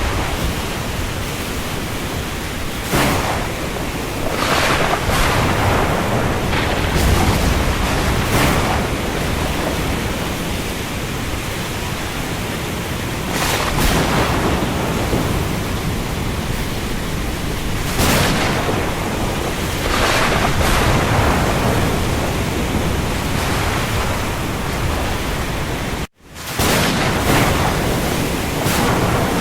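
Steady hiss of heavy rain over the sea, with the noise swelling briefly every few seconds as waves surge. Near the end it cuts out for an instant and fades straight back in.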